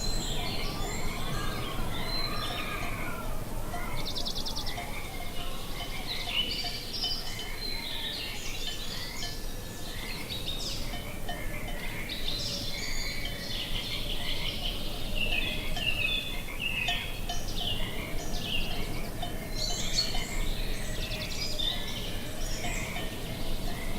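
A chorus of small birds chirping and twittering throughout, with a quick rattling trill about four seconds in, over a steady low rush of wind.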